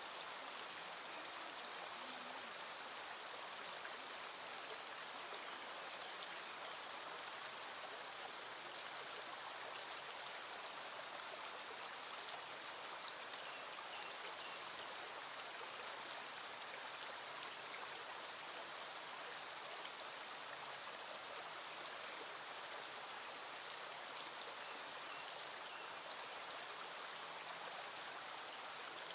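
Small stream flowing with a steady rush of water, with light rain falling and a few faint raindrop ticks, one a little sharper a little past halfway.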